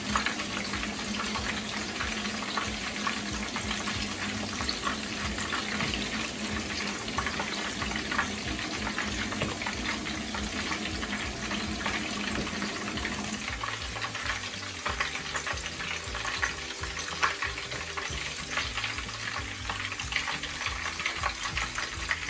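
Mutton mince kababs shallow-frying in hot oil in a frying pan: a steady sizzle full of fine crackles, with wooden spatula and spoon now and then scraping and knocking in the pan as the browned kababs are lifted out.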